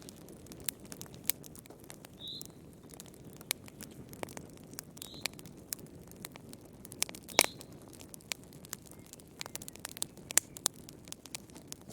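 Wood fire crackling in a fireplace: irregular sharp pops and snaps over a low, steady rush of the flames, with one louder pop about halfway through and a few brief high squeaks.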